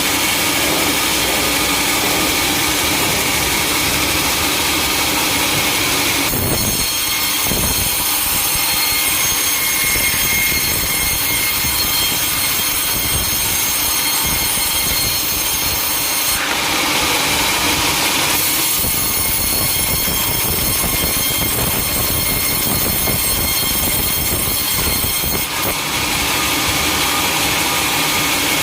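Sawmill machinery running, with a saw cutting through timber: a loud, continuous mechanical noise with a thin high whine. The sound changes abruptly several times.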